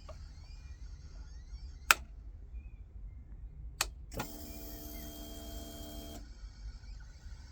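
Honda VFR1200 motorcycle making its start-up noise: two sharp clicks about two seconds apart, then a steady electric buzz lasting about two seconds that stops abruptly. The owner suspects the fuel pump.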